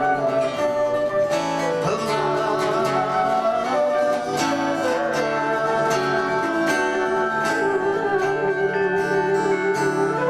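Instrumental break in a song: acoustic guitar strummed in a steady rhythm, with a held, wavering melody line played over it.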